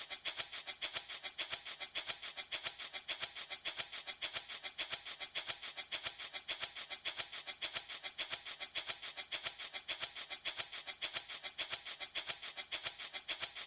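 Handmade wooden baby rattle shaken steadily in an even rhythm, about four shakes a second, giving a high, dry rattle.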